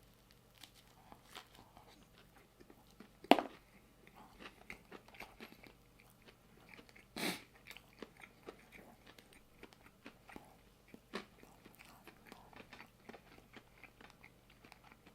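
A person chewing a barbecue chicken sandwich close to the microphone: irregular wet mouth smacks and chewing clicks, with a louder sharp smack about three seconds in and another about seven seconds in.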